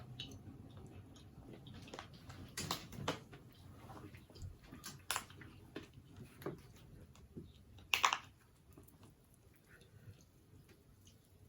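Close-up chewing and biting of crispy chicken, with scattered crunches and wet mouth sounds. The sharpest crunch comes about eight seconds in.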